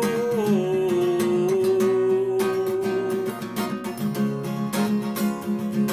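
Acoustic guitar strummed as song accompaniment. A held sung note carries over the first two seconds or so, then the guitar plays on alone.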